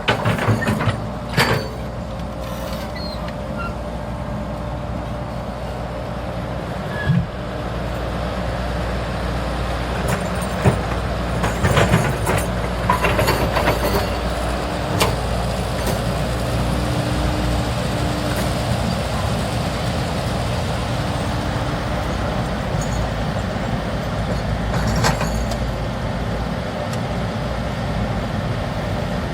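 Hydraulic excavator's diesel engine running steadily under load, with sharp metallic clanks and knocks at the start, about a third of the way in, and again near the end.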